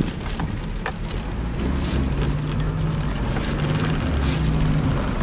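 Suzuki Escudo's engine running, heard from inside the cabin as a steady low hum, with a faint click about a second in.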